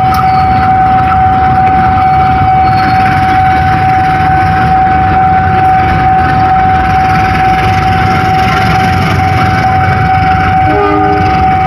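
Diesel-electric locomotive of an arriving passenger train running at close range: a steady high whine over a low rumble.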